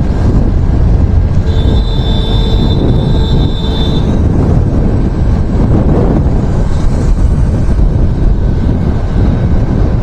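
Loud wind rumble on the microphone and road noise from a vehicle moving through traffic. A thin high whine runs from about a second and a half in to four seconds in.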